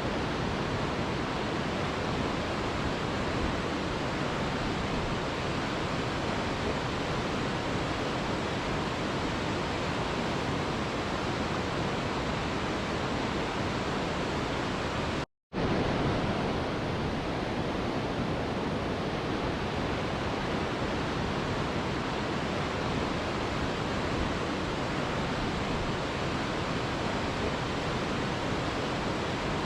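Mountain river rushing steadily, a dense even sound of flowing water, broken once about halfway by a split-second gap of silence.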